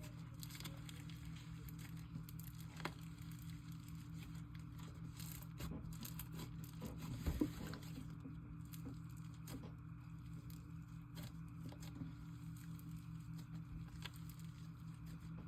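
Hands kneading and stretching a half bingsu, half cloud slime: faint crackling, squishing and tearing, with one louder pop about seven seconds in.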